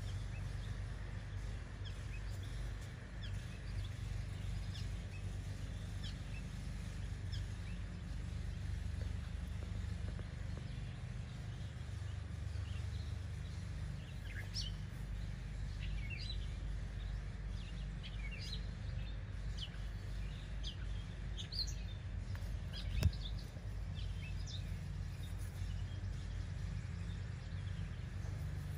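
Small birds chirping now and then over a steady low rumble, the chirps short and high and thickest in the middle stretch. A single sharp knock about three-quarters of the way through.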